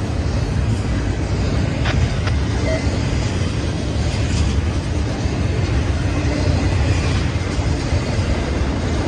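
Double-stack intermodal freight train's well cars rolling past: a steady low rumble of steel wheels on the rails, with a faint click about two seconds in.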